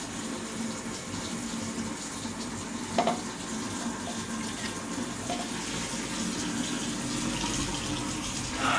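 Water running steadily from a tap into a sink, with a single short click about three seconds in.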